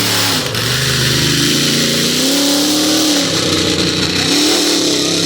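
Monster truck engine revving up and down, its pitch climbing, falling away and climbing again, over a loud steady rush of noise.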